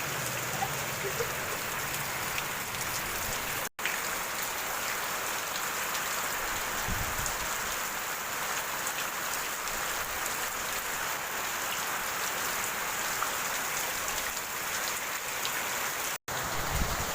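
Steady rain falling, an even hiss of drops hitting surfaces, broken off for an instant twice.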